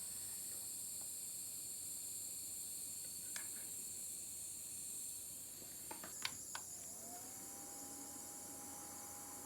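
USB mini fan humidifier: a few light button clicks, then its small fan motor spins up with a thin steady whine over a constant faint hiss.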